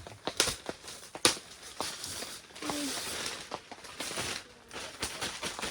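Irregular knocks, clicks and rustling of camping gear being handled as a tent's interior is set up.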